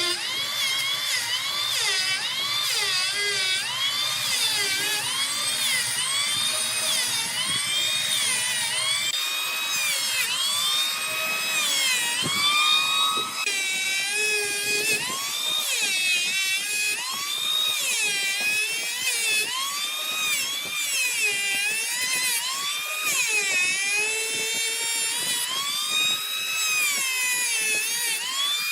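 High-speed power tool whining, its pitch repeatedly dipping and recovering about once a second as it bears into the wood.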